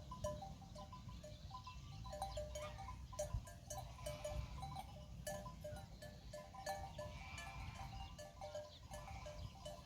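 Pastoral flock of sheep, with many short, clear notes at a few fixed pitches repeating irregularly over a low background rumble.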